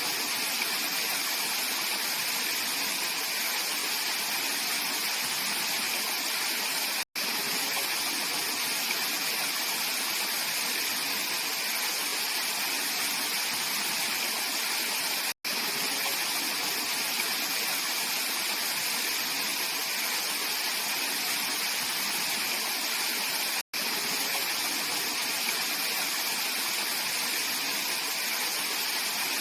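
Mountain stream rushing steadily over rocks, a continuous even splashing flow. The sound drops out for an instant three times, about every eight seconds.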